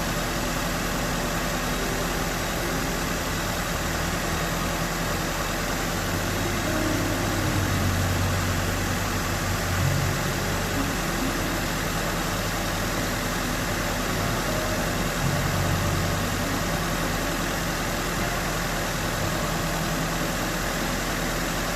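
Nissan SR20DET turbocharged four-cylinder engine idling steadily under a constant hiss, its low hum swelling slightly twice. The engine is being tested for a leaking head gasket, with combustion gas showing up in the coolant.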